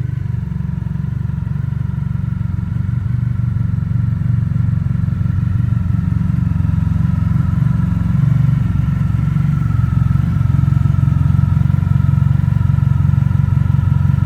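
Honda VFR1200X's V4 engine running through an SP Engineering titanium exhaust: a steady, deep exhaust note that grows slowly louder.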